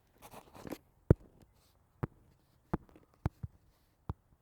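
Footsteps on hard ground: a short rustle, then six sharp separate steps, unevenly spaced about a second apart.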